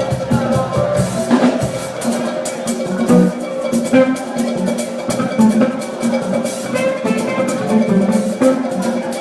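Live church choir anthem music: a drum kit and other percussion playing a steady, busy rhythm under sustained pitched instruments.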